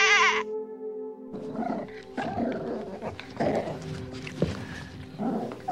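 A bleat cuts off about half a second in. After a short gap, a big cat growls in a series of short, rough calls, over steady background music.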